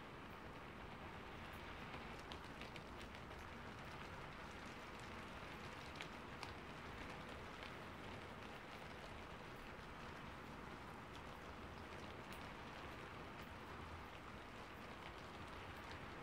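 Steady light rain: a faint, even hiss with scattered drops ticking sharply now and then.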